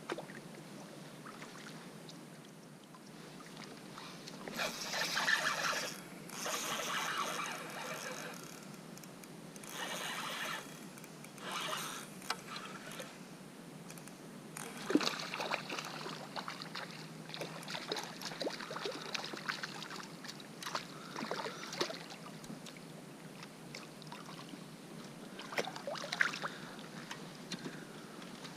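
Kayak paddle strokes splashing through water, several swishes a second or two apart, followed by scattered small clicks and knocks.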